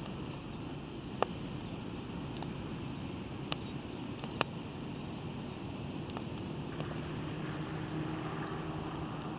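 Wood bonfire crackling, with scattered sharp pops (three louder ones in the first half) over a steady low rumble. In the second half a faint steady hum joins in.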